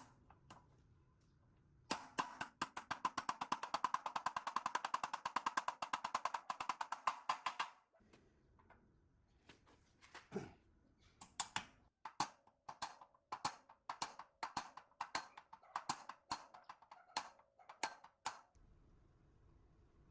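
A fast run of sharp clicks lasting several seconds, then a slower series of separate sharp knocks, about two a second.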